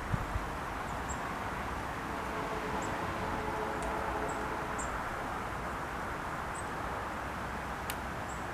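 Outdoor ambience: a steady low background rumble with faint, high, short bird chirps every second or two. There are a couple of soft thumps right at the start and a sharp click near the end.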